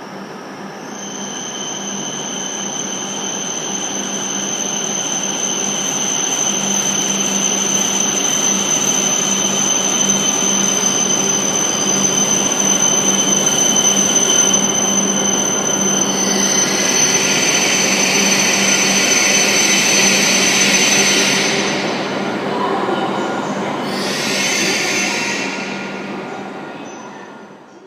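Hokuriku Shinkansen high-speed train running through a station, growing louder over about fifteen seconds with a steady high whine, then a rush of air and wheel noise as the cars go by, and a second shorter rush near the end.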